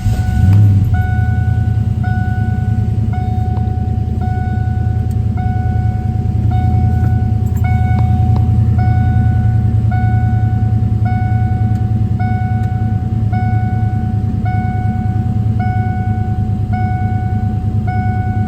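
1992 Ford Mustang LX engine catching on a cold start, flaring briefly, then settling to a steady fast idle. Over it a dash warning chime repeats about one and a half times a second.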